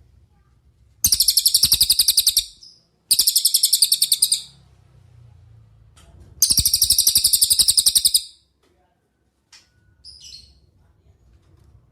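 Cililin birdsong: three loud, fast, high trills of rapidly repeated notes, each lasting one to two seconds, followed near the end by a short single call.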